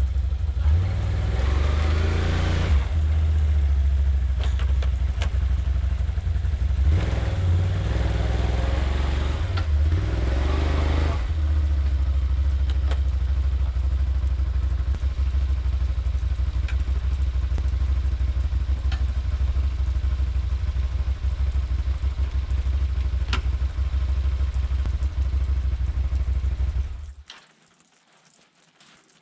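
A vehicle engine running steadily, growing louder twice in long surges, then switched off about 27 seconds in.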